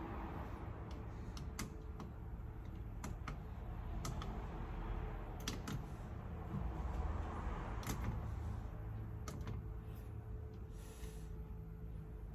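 Scattered light clicks and taps over a low steady hum; no air-conditioning equipment starts up, because the system is not responding to the thermostat call for cooling.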